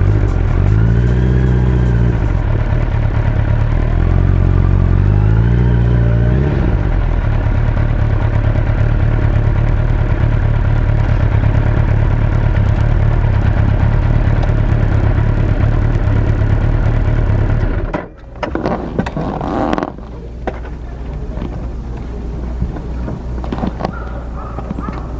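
Suzuki Hayabusa GSX-1300R's inline-four motorcycle engine on the move: the revs rise and fall twice in the first several seconds, then it runs steadily at cruising speed. About eighteen seconds in the sound cuts off suddenly to a quieter background with scattered knocks.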